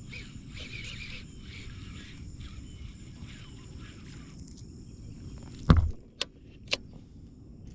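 Repeated outdoor chirping, about one to two calls a second, over a low steady background, then a single loud knock just under six seconds in followed by two sharp clicks.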